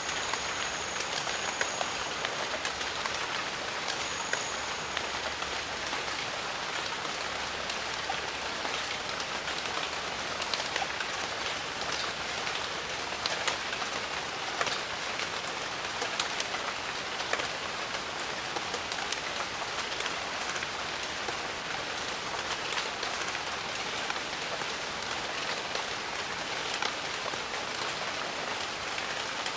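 Steady rain falling on foliage in a jungle, an even hiss with many close, individual drops ticking through it.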